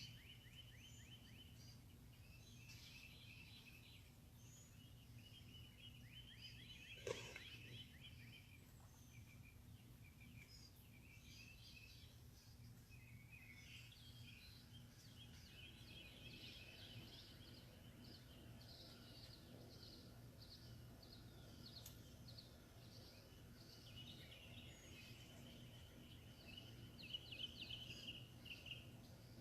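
Faint birdsong: several birds chirping and trilling in repeated short phrases, with one louder call about seven seconds in, over a low steady hum.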